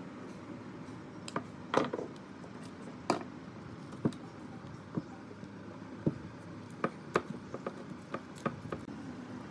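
Irregular sharp clicks and knocks of hard objects being handled and set down, a dozen or so, the loudest about two and three seconds in, over a low steady hum.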